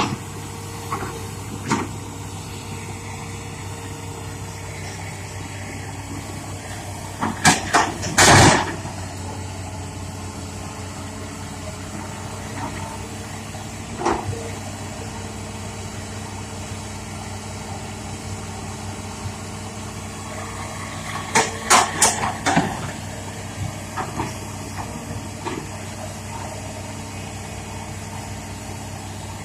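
Hitachi Zaxis200 excavator's Isuzu 6BG six-cylinder diesel running steadily, with loud sharp knocks and clanks in two clusters, about eight seconds in and again about twenty-two seconds in, and a few lighter single knocks.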